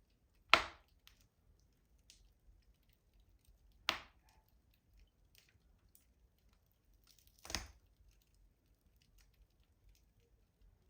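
Wood fire in a rustic stove crackling: three loud, sharp pops about three and a half seconds apart, with faint small crackles between.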